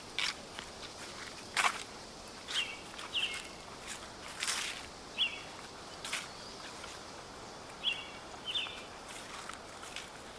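Footsteps crunching through dry fallen leaves at a slow walking pace, a crisp step every second or two. Short high bird chirps come in small groups every few seconds over a steady outdoor hiss.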